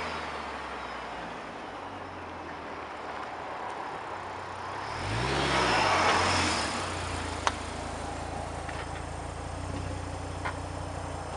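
Audi TT RS five-cylinder engine heard through its exhaust: a single rev about five seconds in, rising then falling, before settling into a steady idle. Two short clicks follow.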